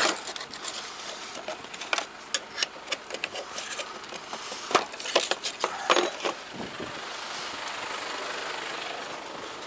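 Metal wrenches clinking and knocking as they are tried on a nut and handled, in a run of sharp clicks. In the second half they give way to a steady rushing noise.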